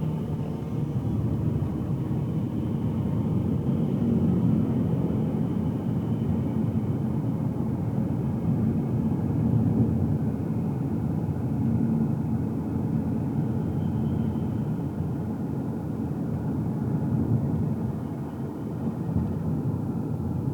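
Car engine and tyre rumble heard from inside the cabin while driving at a steady pace, a low even drone.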